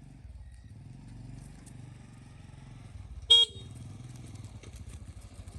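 Motorbike engine running steadily, with one short horn beep a little past the middle.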